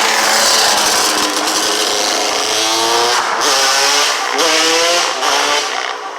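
Small vehicle engine revving hard under acceleration, its pitch climbing in two or three runs with brief dips between them, then dropping away near the end.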